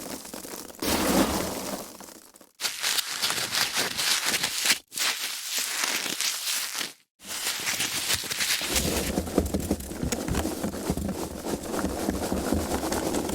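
Foam packaging being handled: squeaky, crackly rubbing and crinkling in several bouts, broken by brief pauses, with a fuller, heavier handling sound in the last few seconds.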